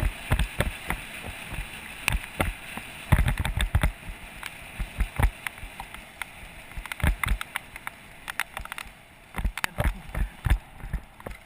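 Bicycle rattling and knocking irregularly over a rough wet descent, picked up through a GoPro Hero 2 camera mount, over a steady hiss of rain and wet tyres that fades near the end.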